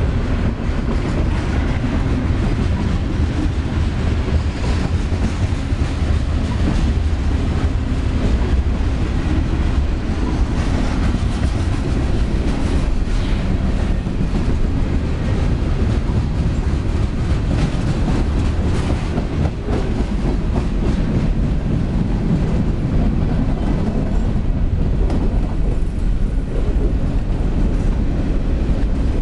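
Freight train cars rolling past, tank cars then covered hoppers: a steady low rumble of steel wheels on rail with irregular clicks as the wheels cross rail joints.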